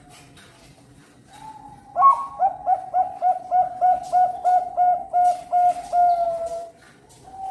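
Zebra dove (Bangkok perkutut) singing its contest song: a short opening coo, then a fast, even run of about fourteen ringing 'kung' notes, about three a second, ending in a held, slightly falling note.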